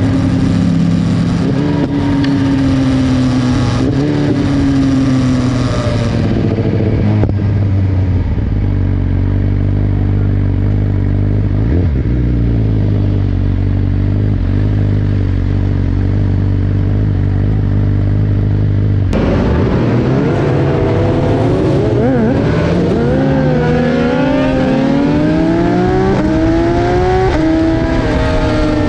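BMW S1000RR inline-four racing motorcycle engine and exhaust at racing speed. Its pitch rises and falls at first, holds nearly steady for about ten seconds, then about two-thirds of the way in swings up and down repeatedly with throttle and gear changes.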